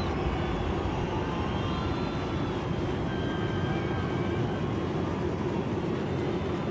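Large open-air festival crowd cheering and shouting steadily, with a few wavering whistles or shouts rising above the noise.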